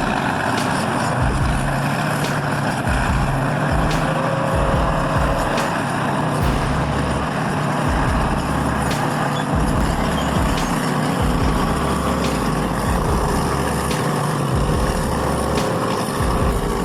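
Heavy truck engine running steadily, with faint clicks and rattles now and then.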